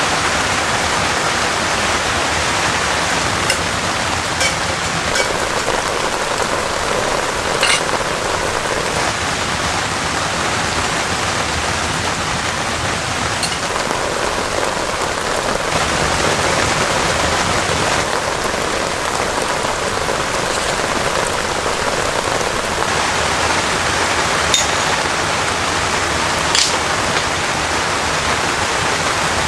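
Heavy rain falling steadily, with a few louder single drops ticking close by now and then.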